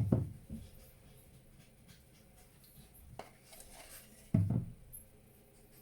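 Peanut butter being scooped into a bowl on kitchen scales: a few dull knocks of a utensil against the bowl, the loudest a little past four seconds in, with light scraping between.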